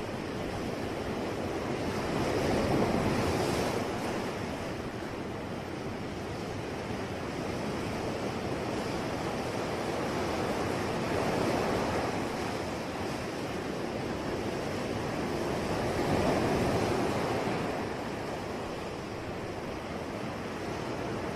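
Sea waves washing in, a steady hiss of surf that swells louder three times as waves break.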